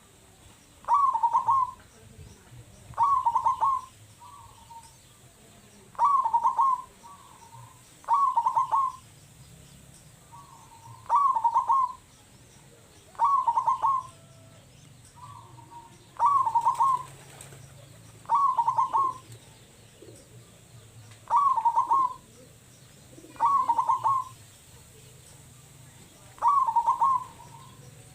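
Local-strain zebra dove (perkutut) cooing, a short rolling phrase repeated about eleven times, every two to three seconds.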